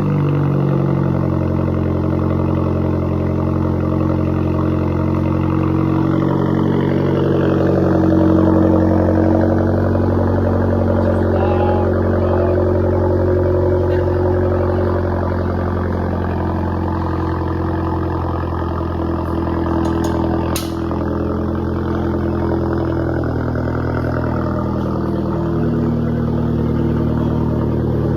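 Hyundai Genesis engine idling steadily through an exhaust with the downpipe swapped and the muffler and resonator deleted, giving a loud, deep idle note.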